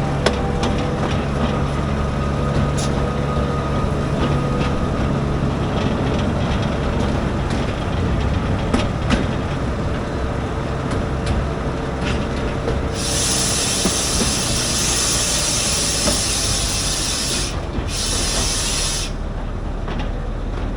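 Akasawa forest railway train running on its narrow-gauge track: a steady rumble with scattered clicks and faint thin squeals from the wheels. About 13 seconds in, a loud hiss starts and lasts about six seconds, with a brief break near its end.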